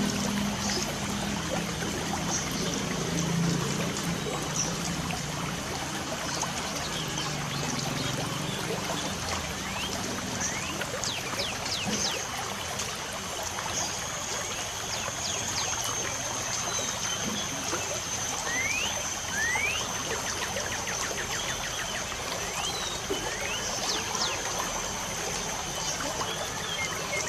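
Light rain falling as a steady, even hiss, with birds chirping over it in short rising and falling calls. A thin, steady high-pitched tone joins about halfway through.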